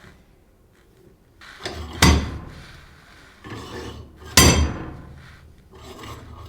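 Cast-iron Paramo bench vise being worked: twice a short sliding rasp ends in a sharp metallic clank, about two and a half seconds apart.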